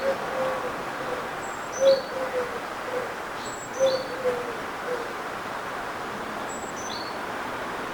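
A dove cooing: three phrases of low notes about two seconds apart, each a short note, a longer falling coo and a trailing note, stopping about five seconds in. Thin high chirps from a small bird and a steady outdoor hum underneath.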